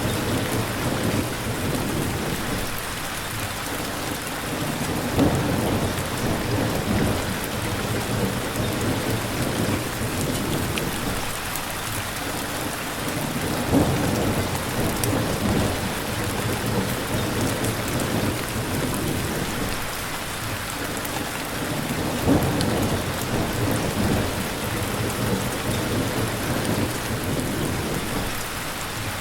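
Steady heavy rain with low thunder rumbles that swell and fade several times. A few sharper, louder cracks come through, about 5, 14 and 22 seconds in.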